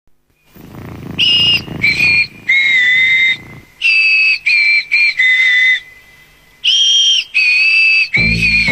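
A tune whistled in clear, steady notes, one after another with short gaps between them. Low instrumental music comes in underneath just before the end.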